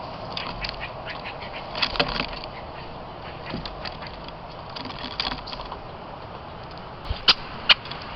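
Birds at a bird camera: a scatter of short calls and clicks over steady background noise, with a few sharp taps near the end.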